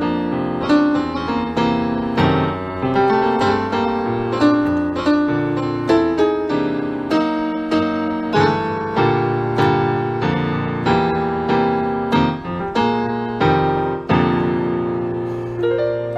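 Piano music: a slow instrumental piece of struck notes and chords, with a rising run of notes near the end.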